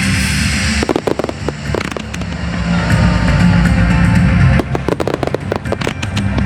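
Fireworks bursting in quick clusters of sharp cracks, about a second in and again from about four and a half seconds, over music with guitar.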